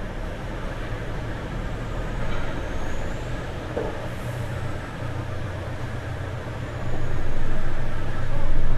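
Low, steady drone of heavy diesel engines running, growing louder about seven seconds in.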